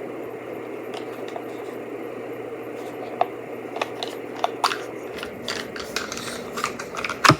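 Plastic toy packaging being handled and opened: scattered small clicks, crinkles and scrapes that get busier as it goes, with a sharper clatter near the end.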